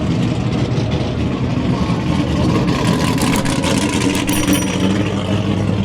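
Car engine running at low speed, a steady low drone.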